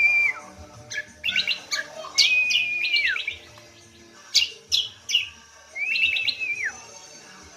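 Cucak kombo (kacial lombok) singing vigorously: quick bursts of sharp chirps alternating with a clear whistled note held for most of a second that drops away at its end, the phrase repeated three times.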